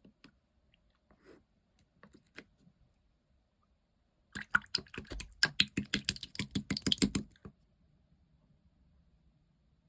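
Clear slime being handled, making sticky clicks and pops: a few scattered clicks at first, then a dense run of rapid clicking for about three seconds in the middle.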